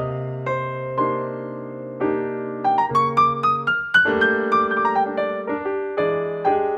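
Background piano music: a gentle solo piano piece, notes struck and left to ring, with a rising run of notes about halfway through.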